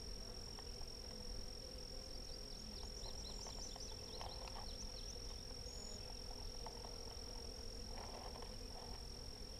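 Honeybees buzzing steadily around an open hive, with a steady high-pitched tone above them and a run of short chirps between about two and five seconds in.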